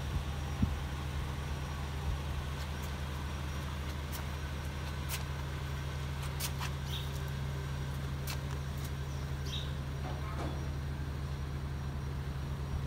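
A motor vehicle's engine idling with a steady low hum, with a few faint ticks.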